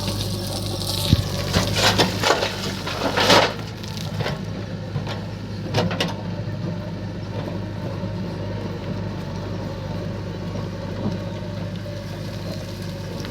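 A backhoe loader's diesel engine running steadily, with stones crashing and rattling as they pour into a tractor trolley from about one to three and a half seconds in, and another knock of stone near six seconds.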